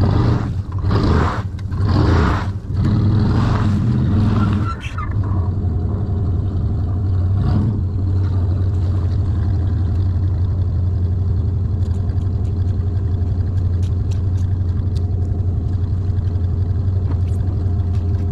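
Pickup truck engine revving in several surges under load, then settling into steady running with a constant low hum.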